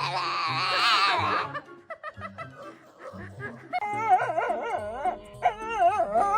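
A dog howling and whining in long, wavering cries over background music with a steady beat. The cries come at the start and again from a little past halfway to the end.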